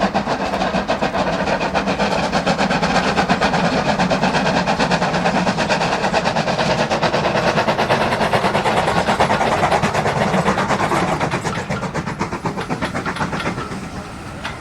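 Two steam locomotives double-heading a train, working with rapid exhaust beats and wheel clatter, the sound easing off over the last few seconds as the train draws away.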